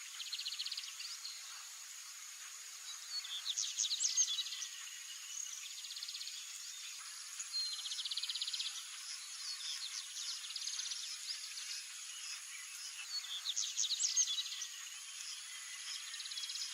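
Red-crested finch singing: short phrases of fast rattling trills alternating with quick sweeping notes, every few seconds, over a steady high insect drone.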